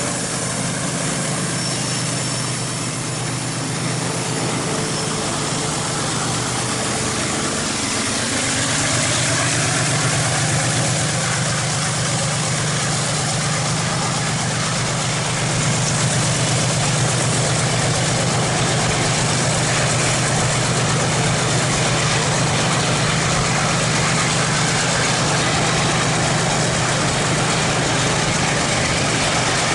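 Diesel freight locomotive engine running with a steady low drone, growing louder about eight seconds in.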